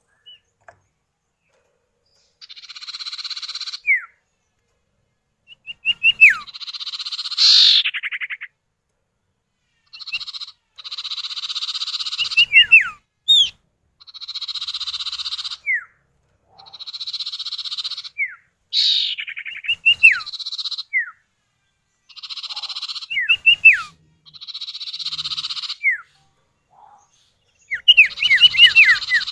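Common iora (sirtu, cipow) calls, male and female answering each other: harsh buzzy rasps about a second long alternate with short, quick downward-slurred whistles, repeated every couple of seconds, with flat silence between phrases.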